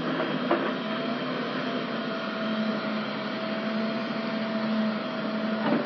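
A small electric motor whirring steadily, with a faint click about half a second in.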